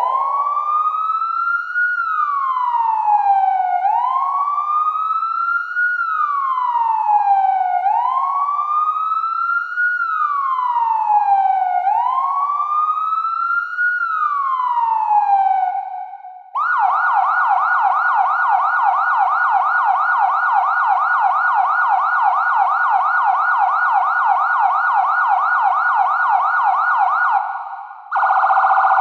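Electronic police motorcycle siren in a slow wail, rising and falling about every four seconds. About sixteen seconds in it switches to a fast yelp of several sweeps a second, and after a brief break near the end changes to a different rapid tone.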